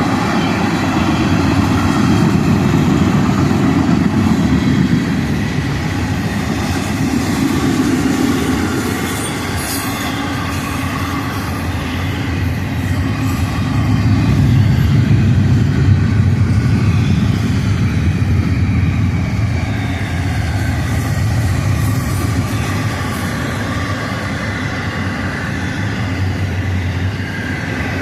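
Florida East Coast Railway freight train's cars rolling past, a steady rumble of steel wheels on rail.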